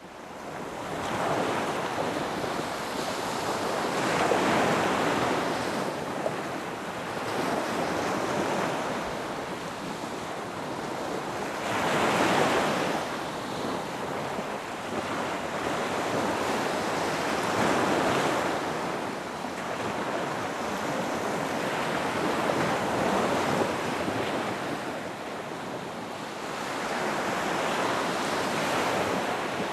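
Ocean surf breaking on a beach, each wave swelling and washing away again roughly every five to eight seconds.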